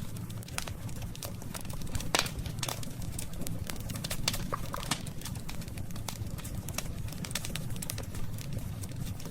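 Wood campfire crackling: a run of sharp pops and snaps, the loudest about two seconds in, over a steady low rumble of the burning fire.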